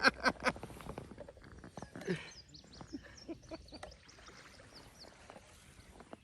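A small bird chirping: a quick series of short, high notes that each slide downward, heard a couple of seconds in and lasting about two and a half seconds. Scattered light knocks and clicks come before it.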